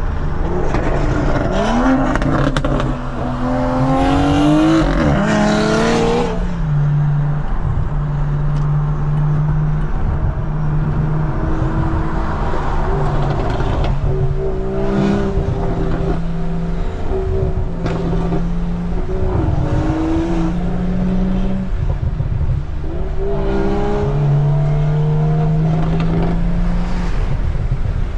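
Car engine accelerating hard, its pitch climbing through the revs and dropping at gear changes, in several pulls over a steady low rumble and road noise.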